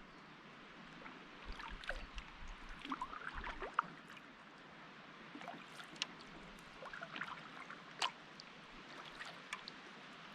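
Kayak paddle strokes: water splashing and dripping off the paddle blades in small splashes and trickles, with a few sharper ticks.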